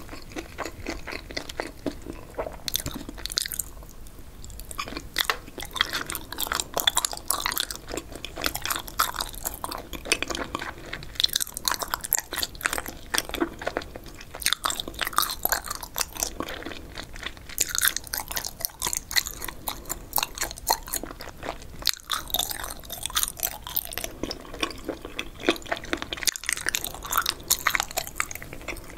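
Close-miked chewing of spicy boneless chicken feet and pork skin: a steady run of wet, sticky smacks and crunchy clicks as the rubbery, cartilage-like pieces are chewed, with a brief lull about four seconds in.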